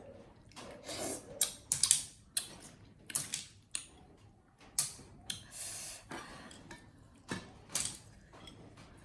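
A string of irregular clicks, clinks and short rustles, a few of them sharp and loud.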